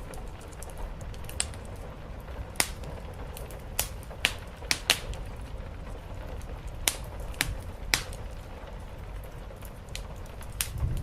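Wood fire crackling, with about ten sharp, irregular pops over a steady hiss and low rumble of rain.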